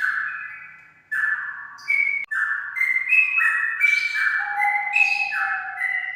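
Straw-headed bulbul (cucak rawa) singing: rapid phrases of clear whistled notes stepping up and down in pitch, with a short break about a second in.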